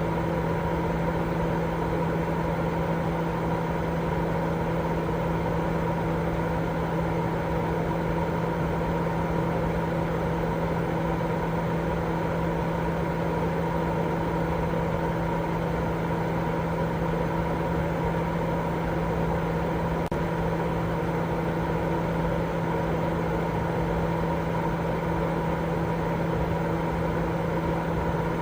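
Continuous steady white noise for baby sleep, a rushing noise with a low hum and a higher steady tone running through it, unchanging throughout.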